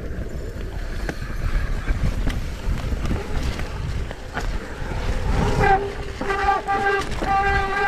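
Mountain bike descending a wet, muddy trail: wind on the microphone, tyre rumble and frame rattles. From about five seconds in, wet disc brakes give a pulsing honk-like squeal each time they are pulled.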